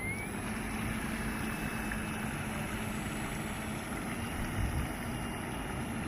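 Radio-controlled model boat's battery-powered electric motor running, a thin whine that rises in pitch right at the start and steps up again a little after four seconds, over a steady low rumble.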